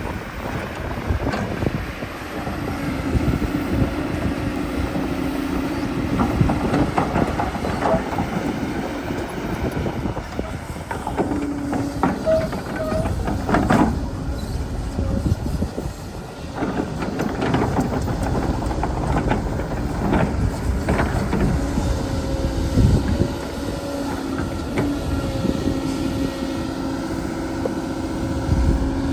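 Excavator working: a steady motor hum that drops out and returns several times, with repeated knocks and scraping.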